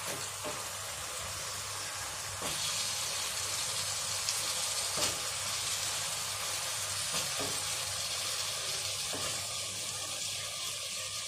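Spiced onion-tomato masala sizzling in hot oil in a pan, a steady frying hiss that grows louder about two and a half seconds in as the boiled chickpeas go in, with a few light clicks.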